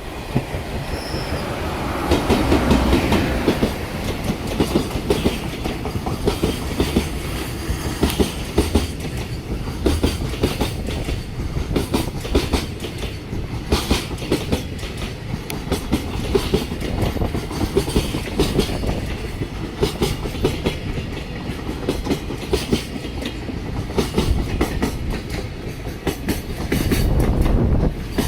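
Freight train of container wagons hauled by an EF210 electric locomotive passing through a station at speed, its wheels clacking over rail joints in a steady run of clicks over a rumble. It is loudest about two seconds in.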